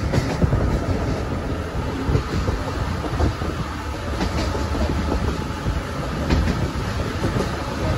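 12 series passenger coaches running along the track: a steady rumble of wheels on rail, with a few clicks from the rail joints.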